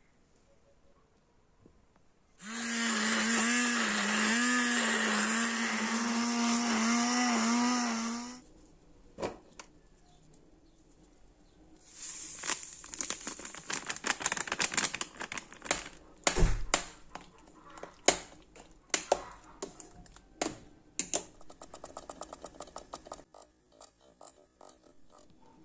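Electric blender motor running steadily for about six seconds, its pitch wobbling slightly under load. After a pause comes a long run of sharp clicks and knocks.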